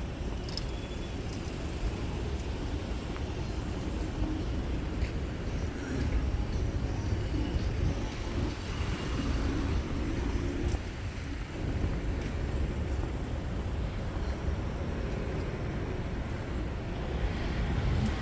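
City street ambience: steady road-traffic rumble from passing cars and other vehicles.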